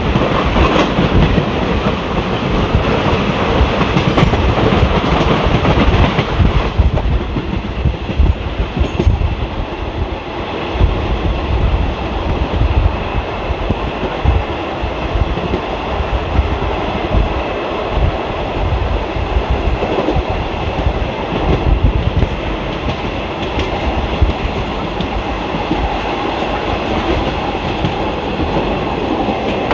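Indian Railways ICF passenger coach running at speed, its wheels clattering over rail joints with a steady rumble. The higher hiss drops away about six seconds in.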